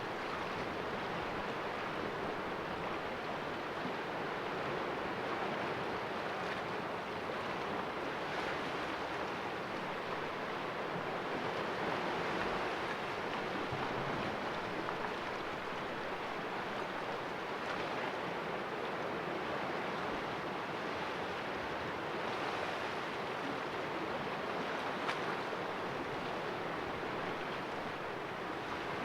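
Sea waves washing and splashing in a rocky cove: a steady wash of surf that swells and eases gently, with a few brief splashes.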